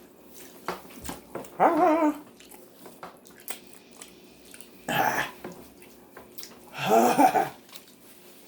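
Three short wordless vocal cries: a wavering one about two seconds in, a breathy one about five seconds in, and a louder one about seven seconds in, with faint clicks between them.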